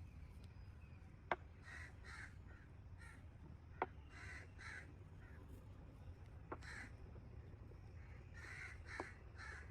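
Bird calls repeated several times, mostly in quick pairs. Four sharp clicks, about two and a half seconds apart, are the loudest sounds.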